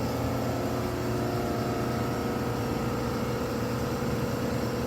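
Steady mechanical hum of commercial kitchen equipment, with several constant tones over a low drone.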